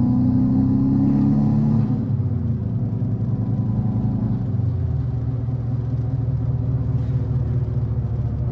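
Subaru WRX's turbocharged flat-four engine heard from inside the cabin while driving. The engine note climbs slightly, drops and gets quieter about two seconds in, drops again around halfway, then settles into a steady drone with road noise.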